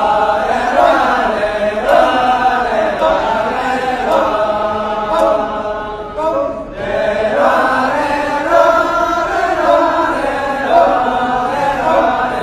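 Balinese kecak chorus chanting together in held, wavering tones, with a short break about six and a half seconds in.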